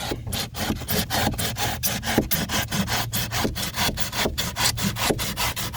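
Drywall knife sawing through old pour-in flotation foam in a boat hull, in rapid back-and-forth strokes, about five a second.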